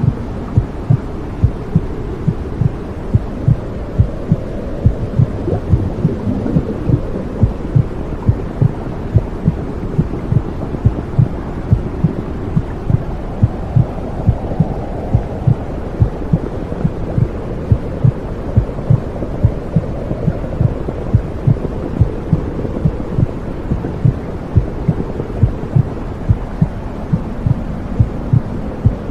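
Womb sound: a muffled, low whooshing rumble with a regular heartbeat thumping through it about twice a second.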